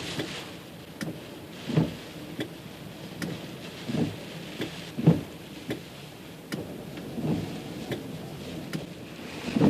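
Storm wind and rain: gusts buffeting the microphone in irregular thumps, with sharp raindrop ticks over a steady rush of rain.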